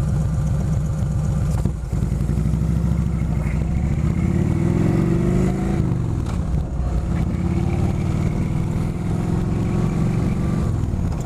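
Kawasaki Vulcan 2000's big V-twin engine running under way, its pitch climbing as it accelerates from about four seconds in, then dropping back about two seconds later.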